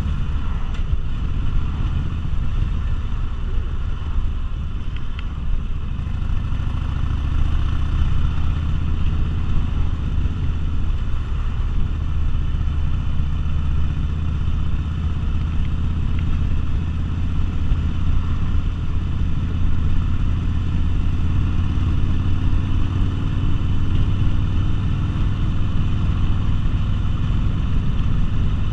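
V-twin cruiser motorcycle engine running while riding, a steady low note that shifts a little in pitch with the throttle.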